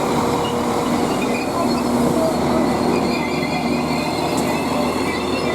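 Northern Class 195 diesel multiple unit arriving, its engine running under a steady hum and its wheels squealing thinly against the rails.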